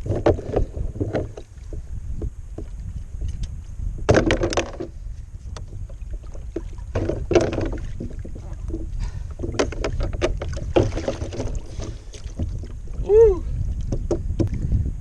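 Water splashing and knocking around a kayak in several irregular bouts over a steady low wind rumble on the microphone, with a short pitched sound that rises and falls near the end.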